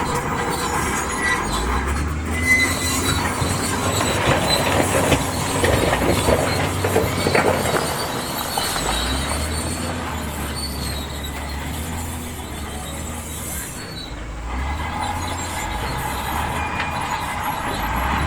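Crawler bulldozer's diesel engine running under load, with its steel tracks squealing and clanking. A thin high squeal comes and goes, and a run of knocks falls near the middle.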